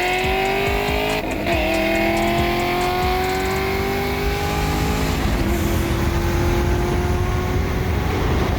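A car engine accelerating hard under full throttle, its pitch climbing steadily. It drops briefly at upshifts about a second in and again about five seconds in, then climbs again.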